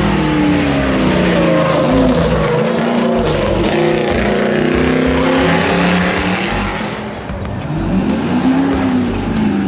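Car engines revving, their pitch repeatedly climbing and falling as they accelerate and let off, with more than one engine heard at once.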